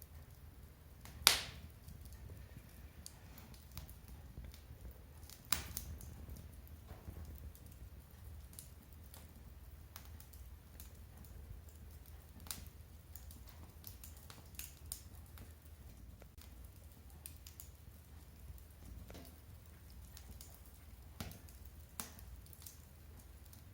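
Firewood burning in a mesh fire pit, giving off scattered sharp crackles and pops at irregular intervals. The loudest pop comes about a second in, another about five and a half seconds in.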